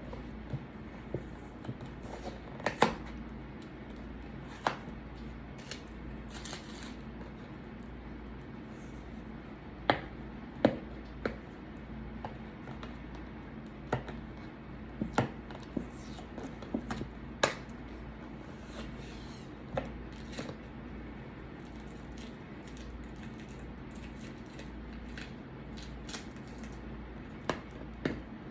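Eating and food-handling noises: scattered sharp clicks and taps, irregularly spaced, a few much louder than the rest, over a steady low hum.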